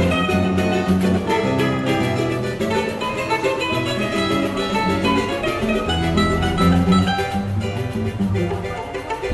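Choro played by a small acoustic ensemble, led by plucked strings: a guitar runs a moving bass line under a quick plucked melody.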